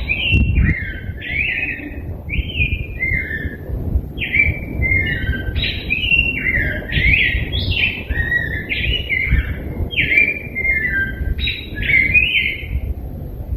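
Rose-breasted grosbeak (degollado) singing a long, continuous warbled song of short slurred notes that rise and fall, phrase after phrase without a break, over a low background rumble.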